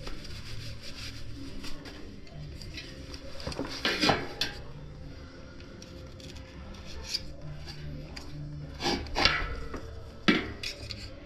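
Hand rubbing and scraping on a mountain-bike tyre, cleaning old sealant off the bead so the tubeless tyre can seat on the rim. There are a few louder scraping strokes about four seconds in and again near nine and ten seconds.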